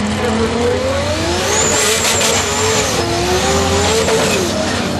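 Turbocharged Lexus IS300 drag car accelerating hard on a low-boost test pass. The engine pitch climbs, drops at a gear shift about three seconds in, then climbs again before falling away near the end, with a high whine rising and falling with the revs.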